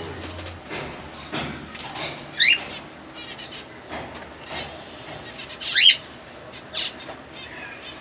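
Cockatiels giving two short, loud rising chirps, about two and a half seconds and six seconds in, among scattered soft knocks and rustles.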